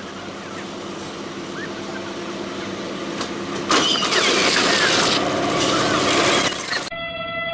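A train approaching with a rising rumble, then a sudden loud rushing noise for about three seconds that cuts off abruptly.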